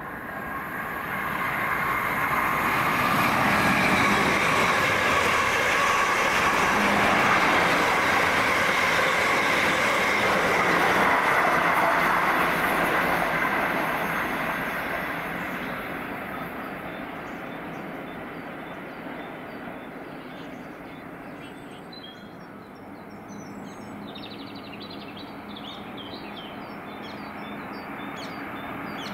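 Passenger train running past on the main line: the rushing wheel-and-rail noise builds over the first few seconds, holds loud for about ten seconds as the train goes by, then fades away.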